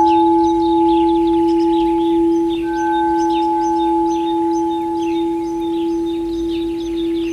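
Singing bowl ringing with one long steady hum, its loudness slowly wavering and easing off, over small birds chirping.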